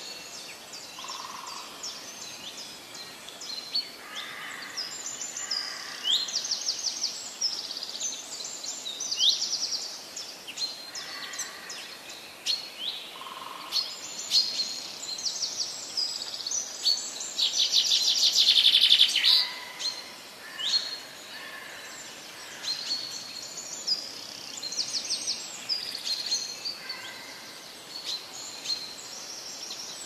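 Several birds singing and chirping over a steady background hiss: many quick, high, falling chirps and trills throughout, with a louder rapid trill a little past the middle.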